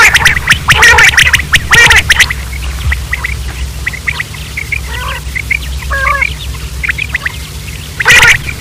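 Common quail calling: a run of loud, harsh repeated calls, then softer short chirps in the middle, and loud calls again near the end. A steady low hum runs underneath.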